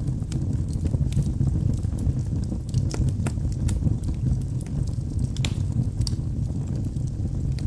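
Logs burning in a fireplace: a steady low rumble of the fire with irregular sharp crackles and pops throughout, a couple of louder pops about three and five and a half seconds in.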